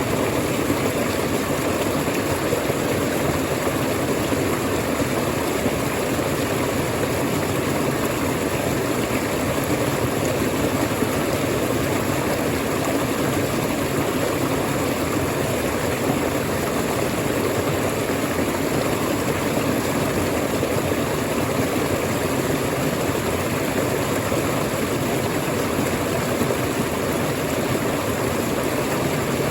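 Waterfall rushing, a steady, unbroken roar of falling water with no change in level.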